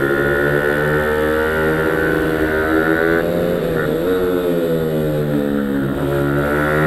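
Pit bike engine running hard on a circuit, its pitch climbing under acceleration. It drops back a little after three seconds in as the rider shifts or brakes, then climbs again.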